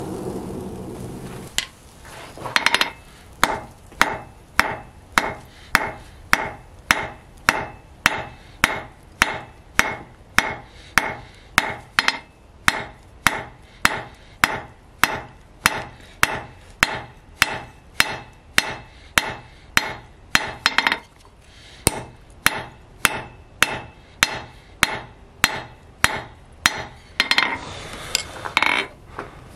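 Forging hammer striking hot spring steel on an anvil in a steady rhythm of ringing blows, somewhat under two a second, with a brief pause about two-thirds of the way through. A rushing noise fades out near the start, and another comes in briefly near the end.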